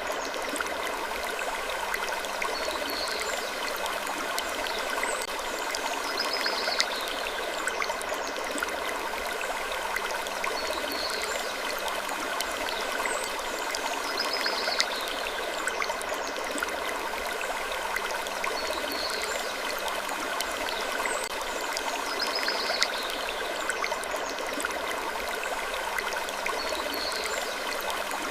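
Sleep-ambience wood creaking over a steady rushing noise like running water, with faint short creaks recurring every two to three seconds.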